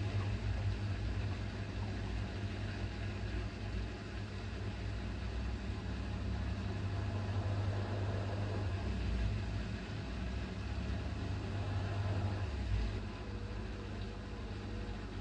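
Hoover H-WASH 500 front-loading washing machine running mid-cycle: a steady low motor hum under a constant rush of drum and water noise.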